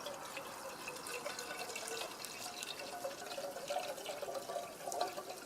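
Water pouring from a bottle into a camping pot, splashing and gurgling, its tone rising slightly as the pot fills.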